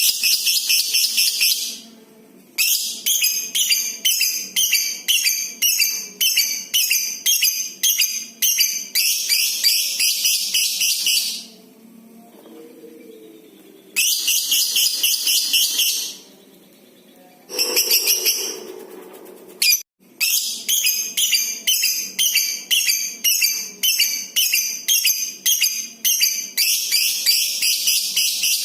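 Lovebird ngekek: long bouts of shrill, rapid chattering calls that pulse about twice a second, broken by short pauses. The longest bout runs about nine seconds.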